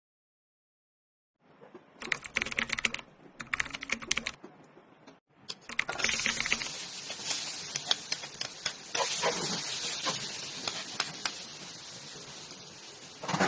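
Food frying in hot oil: two short bursts of crackling sizzle, then about halfway through a steady sizzle with scattered pops.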